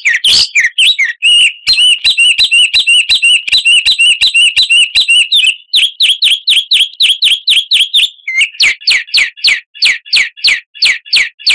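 Songbird recording of the kind played as a lure to get cage birds singing: a loud, continuous string of chirps in changing phrases. A fast even run of about six notes a second gives way to quick down-slurred notes, and from about eight seconds in to falling whistled notes at roughly three a second.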